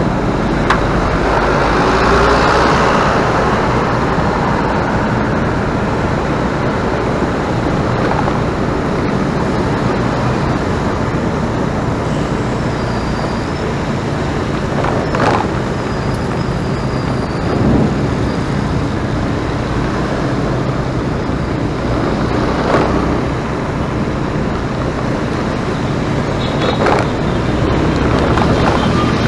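A motor running steadily under a constant rush of noise, with a few brief swells.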